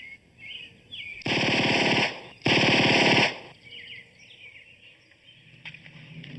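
Two bursts of rapid automatic gunfire, each about a second long, back to back. Birds chirp faintly before and after.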